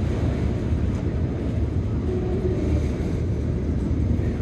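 Freight train rolling past, a steady low rumble with wind buffeting the microphone.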